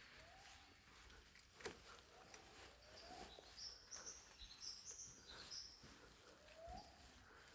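Faint birdsong in forest ambience: repeated short, high whistled notes mixed with lower rising calls every second or two. One sharp click about a second and a half in.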